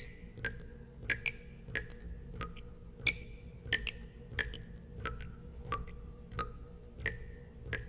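Water drops falling into water, each a sharp plink with a short ringing tone, coming at a fairly even pace of about one and a half drops a second over a low steady rumble.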